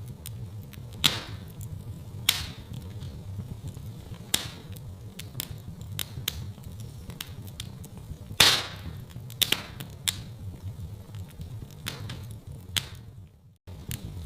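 Wood fire crackling in a fireplace: irregular pops and snaps over a steady low rumble, with sharp loud pops about a second in, at just over two seconds and past the middle. The sound cuts out for a moment near the end.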